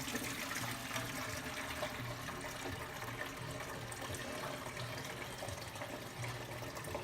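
Espresso running from an Olympia Cremina lever espresso machine into a cup: a steady stream of liquid.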